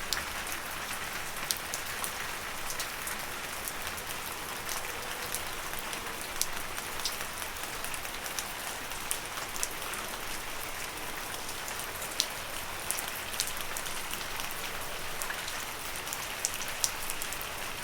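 Steady gentle rain falling on leaves, with individual drops ticking sharply and irregularly over an even hiss.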